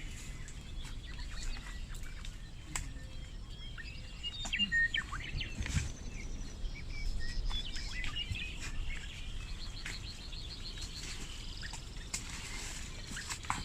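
Wild birds chirping and calling, with scattered short notes and a quick run of repeated high notes about two-thirds of the way through, over a steady low background hiss.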